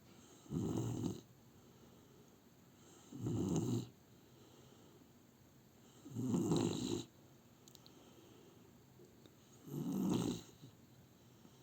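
A five-month-old Rottweiler puppy snoring: four snores roughly three seconds apart, each lasting under a second.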